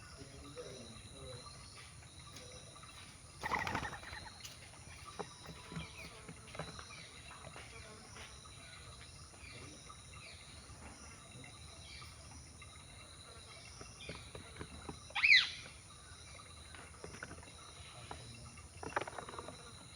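Birds in a feeding flock giving a few short calls over faint outdoor background noise. The loudest is a sharp, gliding call about three quarters of the way through, with weaker calls near the start and near the end.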